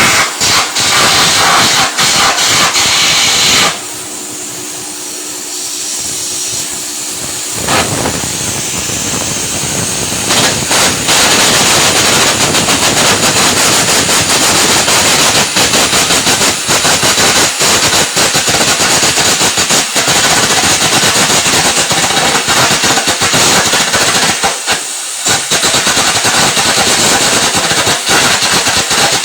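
Electric arc welding: the welding arc crackling and sizzling steadily. The arc stops for about four seconds near the start, leaving a quieter hiss and hum, then strikes again, with another brief break near the end.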